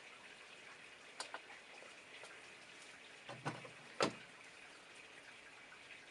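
A few short clicks and knocks of small parts and tools being handled while an old scale is taken apart, the loudest about four seconds in, over a faint steady hiss.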